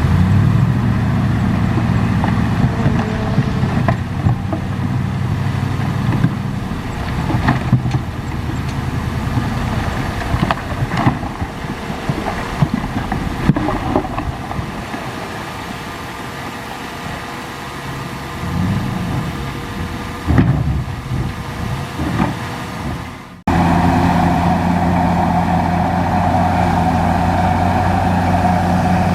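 Bulldozer's diesel engine running as it pushes dirt, with scattered knocks and rattles; about two-thirds of the way in the engine note rises and falls twice. Near the end the sound cuts off abruptly into a steadier engine note.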